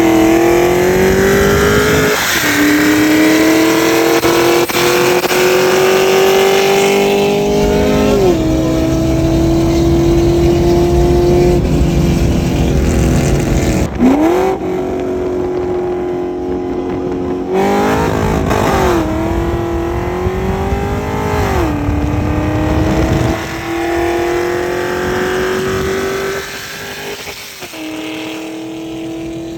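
C6 Corvette V8 with aftermarket headers and exhaust at full throttle, revving up through the gears with a sharp drop in pitch at each upshift every few seconds. It eases off near the end.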